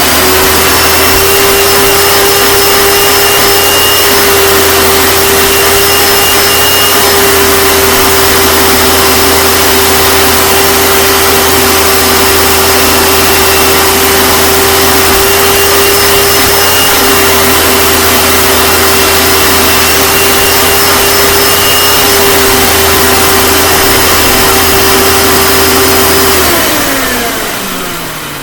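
1997 Hoover Sprint U4257-930 vacuum cleaner running, its motor giving a loud, steady whine just after switch-on. Near the end it is switched off and the motor winds down, the whine falling in pitch and fading.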